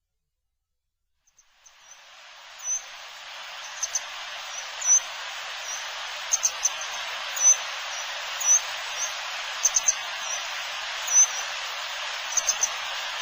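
Grey wagtail giving short, sharp, high call notes, singly and in quick clusters of two or three at irregular intervals, over a steady hiss that fades in after about a second and a half of silence.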